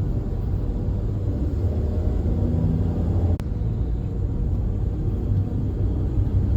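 Steady low rumble of a moving vehicle, with a brief break a little past halfway.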